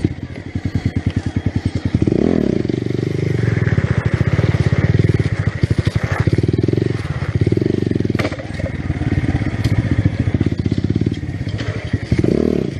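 Motorcycle engine running at low revs, then revved up about two seconds in and run hard, the revs rising and falling several times.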